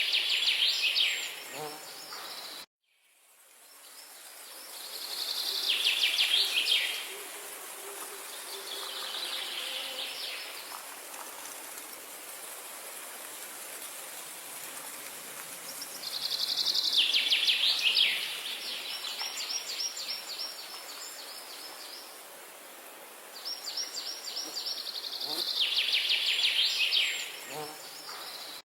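A songbird repeating a quick trilled song that falls in pitch, about five times with pauses of several seconds, over a steady outdoor hiss. The sound cuts out abruptly about three seconds in and fades back up.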